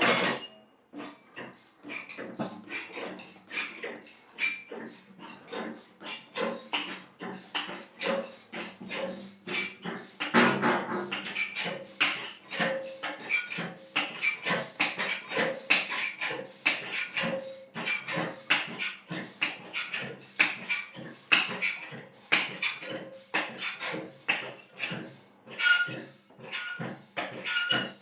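Hydraulic motorcycle lift being pumped by its pedal, about two strokes a second, each stroke squeaking.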